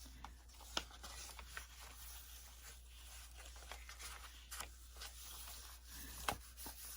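Faint rustling of paper pages being handled and turned in a hardbound journal, with a few soft taps.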